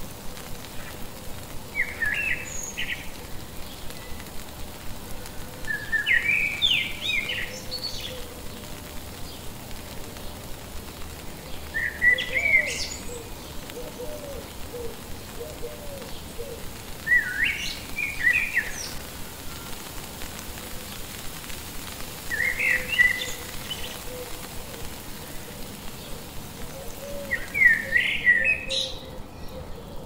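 Bird song: a short chirping phrase repeated six times, about every five seconds, with softer low calls between some phrases and a steady fast ticking in the background.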